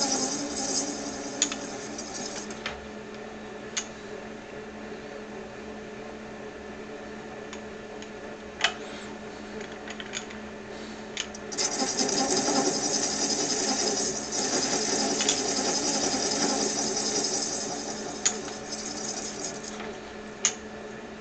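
Metal lathe running at about 300 RPM while the tool turns a 3D-printed plastic knob: a steady motor hum, with a louder hiss as the tool cuts briefly at the start and again for several seconds in the second half, and a few sharp clicks.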